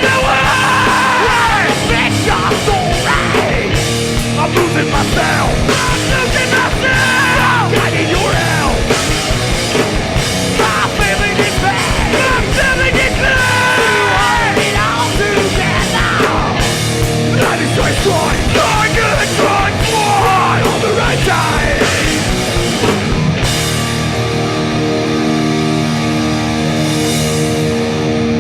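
Hardcore punk band playing live: distorted electric guitars and pounding drums under shouted vocals. About 23 seconds in, the vocals and drums drop away and the distorted guitar carries on with held notes.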